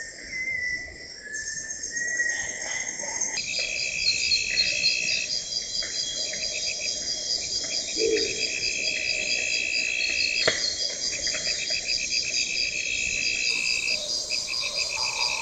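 Rainforest insects calling, crickets or katydids: several high, steady trills and rapidly repeated chirps layered together. The mix changes suddenly about three seconds in and again near the end. A single sharp click comes about ten seconds in.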